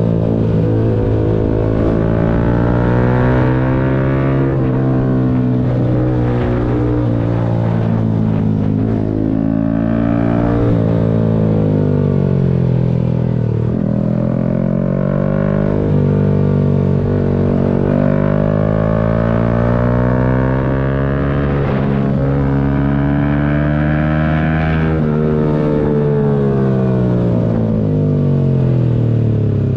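Yamaha MT-125's 125 cc single-cylinder four-stroke engine under way, its revs climbing and dropping several times as the bike accelerates and slows.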